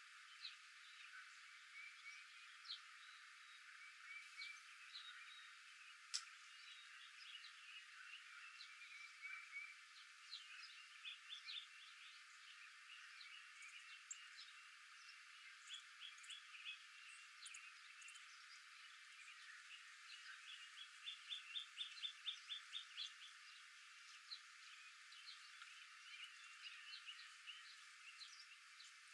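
Faint chorus of small animal calls: many short chirps and trills overlapping, with a louder run of quick repeated notes about 21 seconds in and a single sharp click about six seconds in.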